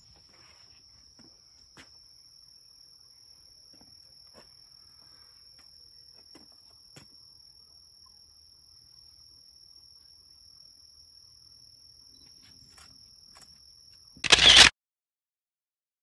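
A steady, high-pitched insect trill in woodland with faint scattered clicks. A brief loud bump cuts it off about fourteen seconds in, and then the sound stops dead.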